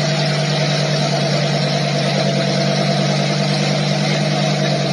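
A vehicle's engine running steadily with a constant low drone and an even rushing noise over it, with no change in pitch or level.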